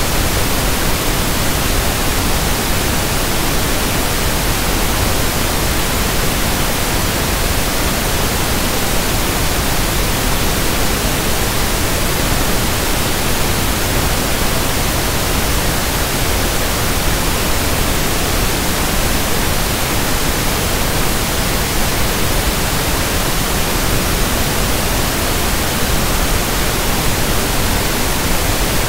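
Synthetic pink (1/f) noise: a steady, even hiss spread across the whole pitch range, unchanging throughout.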